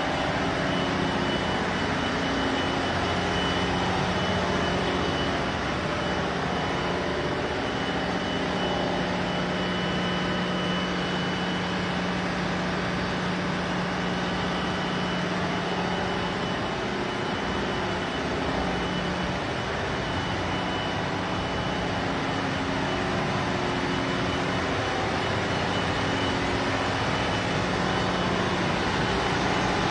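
Loud, steady din of a cargo ship's engine room: running machinery with a constant low hum and a thin high whine.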